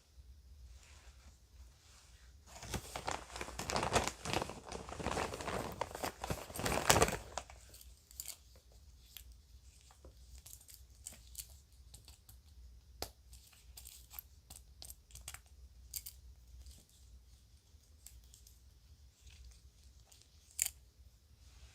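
A bag crinkling and rustling for about five seconds, as if torn or pulled open, then small jewelry pieces handled with scattered light clicks and taps and one sharper click near the end.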